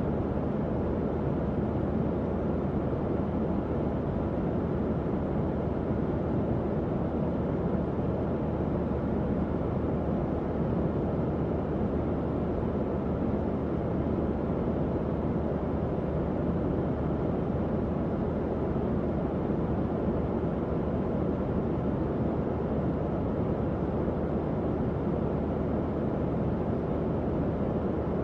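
Tower fan running steadily: an even whoosh of moving air, strongest in the low and middle range, with a faint low motor hum.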